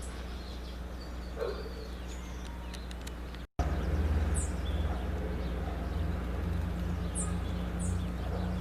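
Small birds giving short, high, falling chirps every second or so over a steady low hum. The sound cuts out for an instant about three and a half seconds in, and the hum is louder afterwards.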